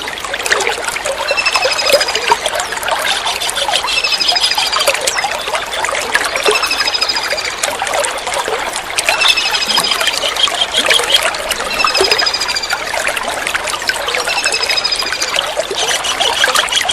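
A kingfisher calling in short, high, rapid series of notes about a second long, repeated about every two and a half seconds, over steadily trickling running water.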